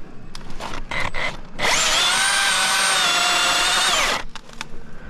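Milwaukee battery-powered chainsaw's electric motor spinning up to a high whine, running for about two and a half seconds with its pitch dipping slightly, then winding down and stopping. A few sharp clicks and snaps come before it.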